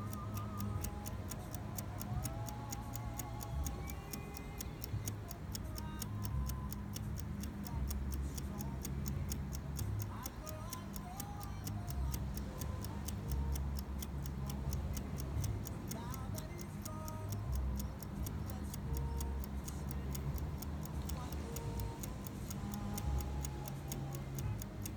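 Evening outdoor ambience: a steady, rapid ticking at about four pulses a second over a continuous low rumble, with short scattered chirps and calls.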